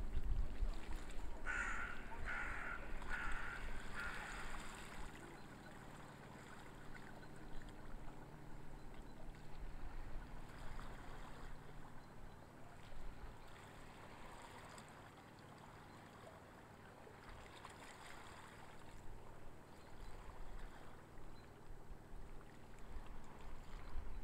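A bird calls four times in quick succession about a second and a half in, each call about half a second long. Underneath is a low rumble that fades over the first few seconds, leaving a faint steady background.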